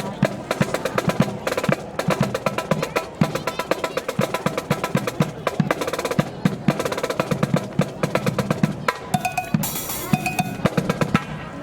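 Marching band drum line playing a cadence: rapid snare strokes and rolls over bass drum hits.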